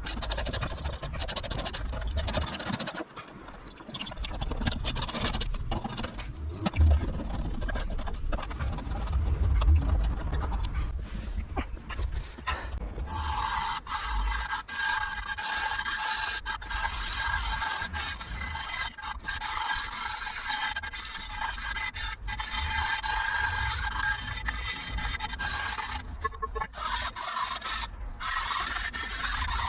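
Scraping and rubbing on rusty metal parts, irregular at first, then from about halfway a steady scraping with a constant whine, as of a power tool cleaning rust off, that breaks off briefly near the end.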